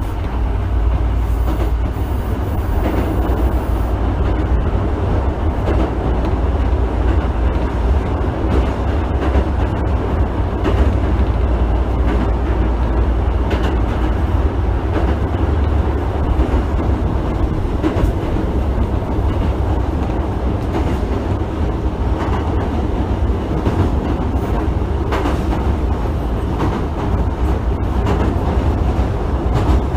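Running sound inside an unrenewed Osaka Municipal Subway 66 series car at speed: a steady rumble of wheels on rail, with scattered sharp clicks from rail joints.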